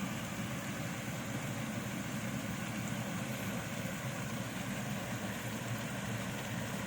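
A steady, unchanging low engine drone with hiss over it.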